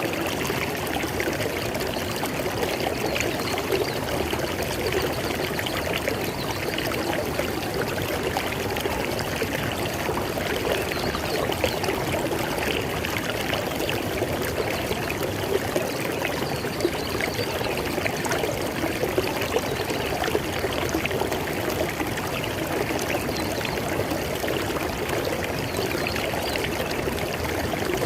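River water flowing steadily over stones, a continuous rushing with fine splashing and trickling.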